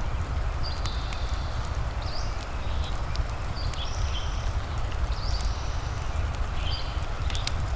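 Layered cabin ambience: a fireplace crackling with scattered sharp pops over a steady low rumble and hiss of rain. Short high bird chirps, some sliding quickly in pitch, come several times throughout.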